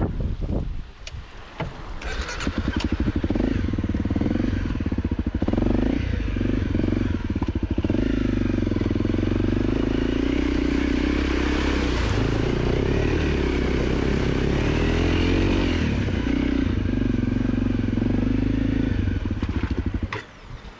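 A 250 cc dirt bike's engine running hard, its pitch rising and falling with the throttle. It starts about two seconds in and stops abruptly just before the end.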